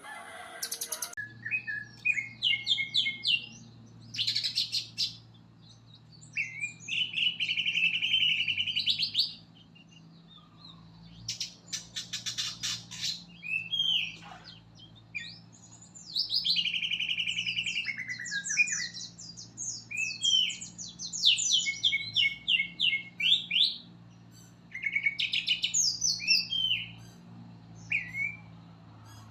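Songbird singing a fast, varied song of chirps, trills and whistled phrases in bursts with short pauses, as played for caged songbirds to copy, over a steady low hum.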